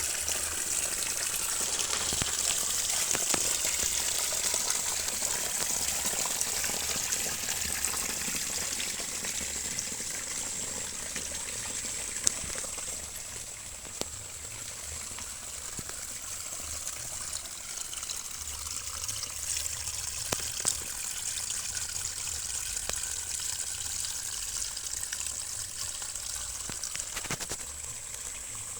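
Small waterfall: water falling and splashing steadily, with a few brief ticks about halfway through and again later.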